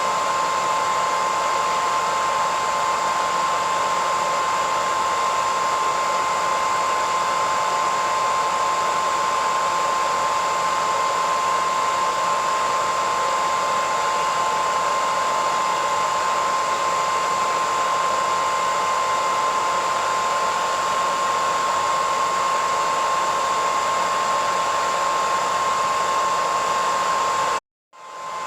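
Hair dryer running steadily: a rush of blown air with a steady high whine on top. Near the end it breaks off to silence for a moment, then fades back in.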